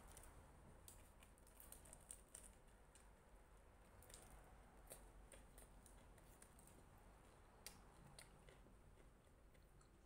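Faint chewing and biting of a sandwich: scattered soft mouth clicks and smacks over a low steady hum.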